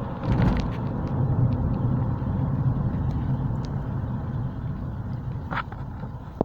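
Car driving: a steady low rumble of engine and road noise with a few light ticks, easing off a little near the end.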